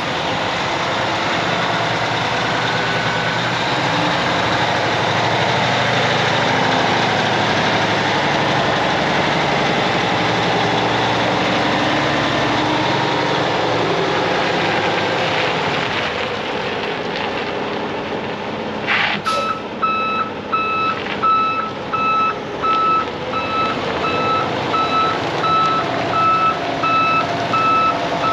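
Heavy diesel truck running with a loud steady rumble; about two-thirds of the way through, after a sharp click, a backup alarm starts beeping about twice a second.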